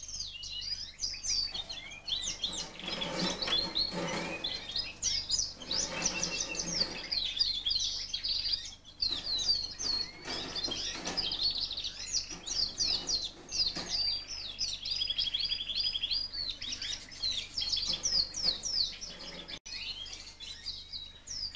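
Many Fife Fancy canaries chirping and singing together in quick overlapping notes, with a fast trill about two-thirds of the way through.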